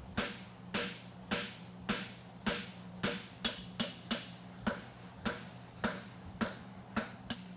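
Farrier's hammer striking a hot steel horseshoe bar on the anvil in a steady rhythm, about one blow every half second with a few lighter taps between, flattening the bar out to widen it. A steady low hum runs underneath.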